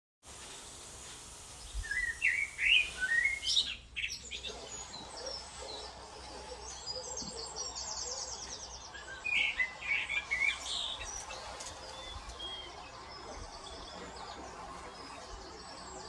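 Wild birds calling and singing: clusters of chirps about two seconds in and again around nine to ten seconds, with a fast high trill near eight seconds, over a steady background hiss.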